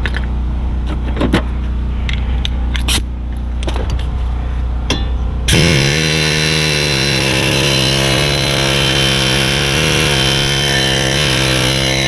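A few sharp metallic clicks and knocks over a low steady hum, then about five and a half seconds in a power tool starts abruptly and runs steadily at an even pitch, loosening parts to free the rear brake rotor.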